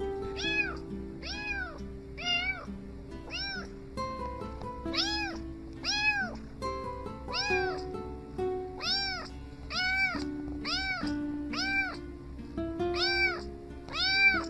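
Kitten meowing over and over, high, arching meows at roughly one a second, with background music underneath.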